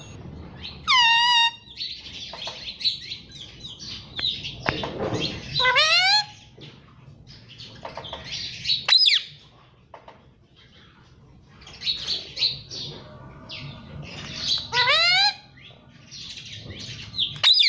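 A parrot calling: loud whistled calls, one falling about a second in and rising ones around six and fifteen seconds in, with a sharp call near nine seconds and squawky chatter in between.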